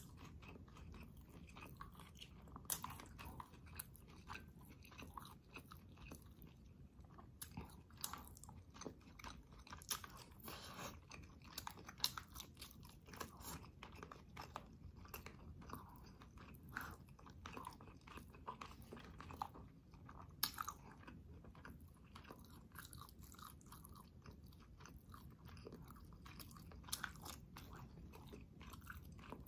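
Faint, close-miked chewing and wet mouth clicks of someone eating catfish and shrimp in tamarind soup, with a few sharper clicks standing out, the loudest about twelve seconds in and again near twenty seconds.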